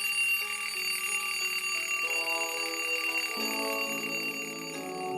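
Bright, steady bell-like ringing tone held over a run of sustained synthetic notes that step upward in pitch: an electronic intro jingle.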